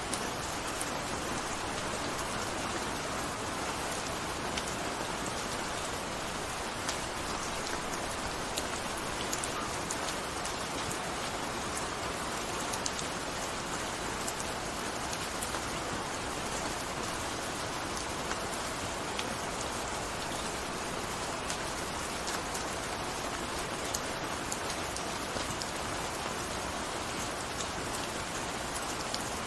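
Gentle rain falling steadily, a constant hiss with many individual drops pattering on a surface.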